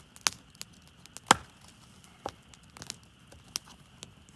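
Hinoki (Japanese cypress) firewood being split, a few irregular sharp cracks and knocks with the loudest about a second in.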